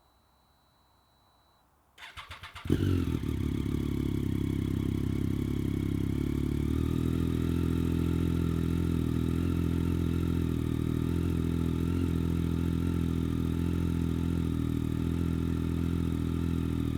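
A 2012 Triumph Street Triple's 675 cc inline-three is cranked briefly by the starter about two seconds in, catches, then idles steadily through an Arrow slip-on exhaust with its dB killer removed. The idle settles slightly lower about seven seconds in.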